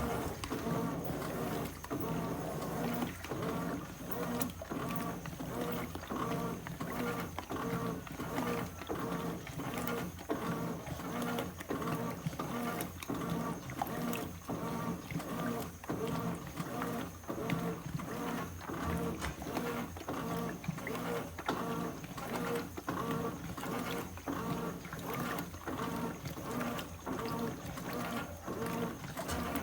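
Brastemp 17 kg washing machine (BWK17A) in its initial agitation with two pillows inside: the motor hums and the agitator churns back and forth in a steady, regular rhythm, with the load and water sloshing.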